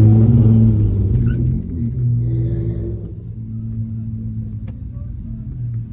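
Car engine running with a low, steady rumble: louder and wavering in pitch for about the first second, then settling to an even idle.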